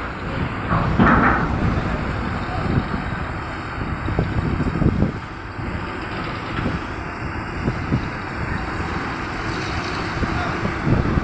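Low engine rumble of vehicles with wind buffeting the microphone, and a few voices in the background about a second in.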